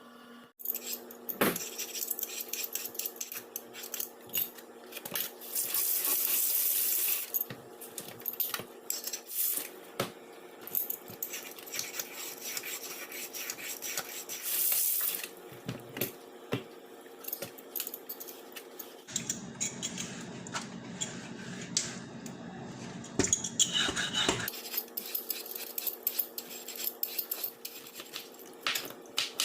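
Kitchen work: dishes, pans and cutlery clattering and clinking in many sharp knocks, with a few stretches of steady hissing in between.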